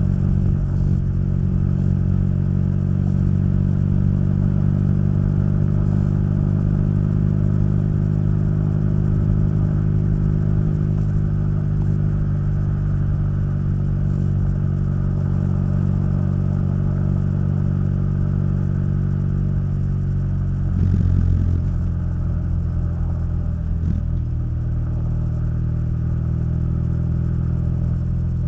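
Motorcycle engine and exhaust running steadily while riding, with a short louder burst about 21 seconds in, after which it runs on slightly quieter.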